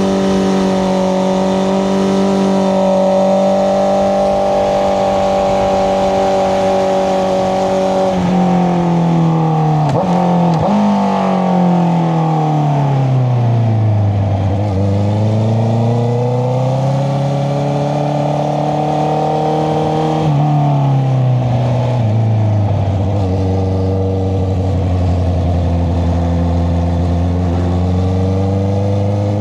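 Honda CBR650R inline-four motorcycle engine through an Akrapovic exhaust, running at steady high revs, then dropping in revs over several seconds with a brief break partway down. It climbs again, drops once more, and settles into a steady lower-rev run near the end.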